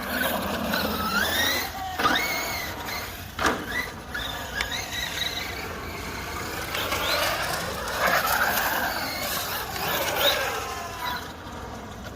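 Electric motor and drivetrain of a 1/7-scale RC monster truck whining up and down in pitch as the throttle is worked. There are a few sharp knocks around two and three and a half seconds in.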